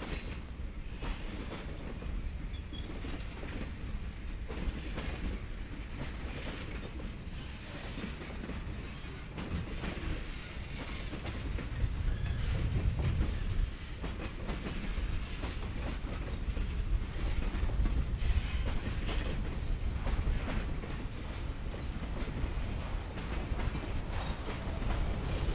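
Freight cars of a Union Pacific manifest train rolling past at close range: a steady low rumble with wheels clicking and knocking over the rail joints, a little louder from about halfway through.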